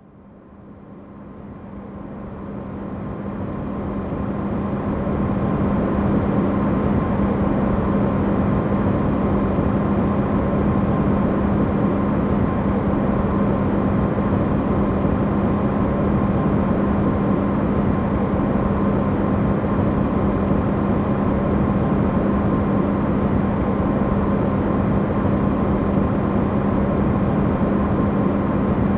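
Amplified recording of an Electrolux refrigerator running: a steady low hum with a wide hiss of noise over it, used as white noise. It fades in over the first few seconds and then holds level.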